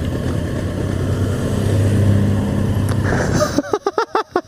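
Honda CBR500's parallel-twin engine running at a steady pitch while riding, with wind noise. Near the end it gives way to a few short, choppy bursts of the rider laughing.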